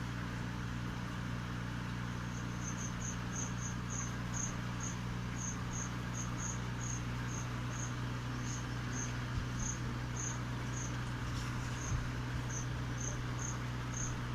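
Insect chirping: short high pips repeated unevenly, about two or three a second, over a steady low electrical hum and hiss, with a few faint clicks near the end.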